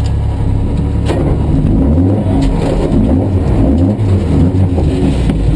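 Ford Escort MKII rally car engine heard from inside the cabin, running steadily, then revs rising and falling several times from about two seconds in as the car moves off. A sharp click about a second in.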